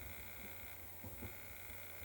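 Quiet room tone with a faint steady hum, and a soft brief stir about a second in.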